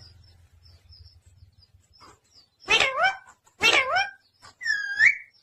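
Pet parrot calling: two short pitched calls about a second apart, then a higher whistle that rises at the end.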